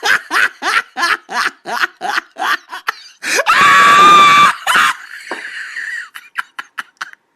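A person laughing hard in rapid bursts, breaking into a loud, high-pitched shriek of laughter about three seconds in, then trailing off into fainter, breathy laughs.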